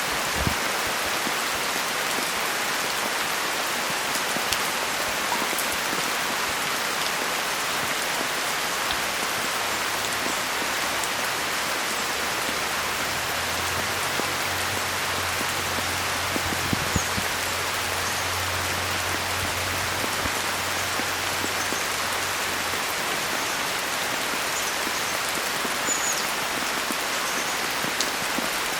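Steady rain falling on a pond: an even hiss of many raindrops striking the water, with scattered small drips standing out.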